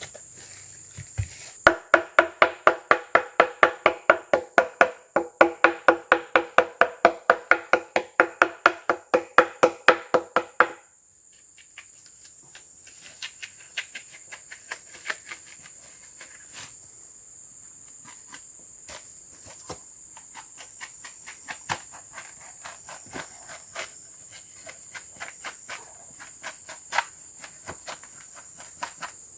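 Wood being struck hard and fast, about four resonant knocks a second for roughly nine seconds, then stopping and giving way to scattered lighter knocks and clicks. A steady high insect drone runs underneath.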